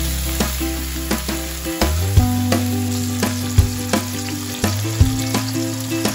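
Tofu cubes frying in hot oil in a wok, giving a steady sizzle. Background music with sustained low notes plays underneath.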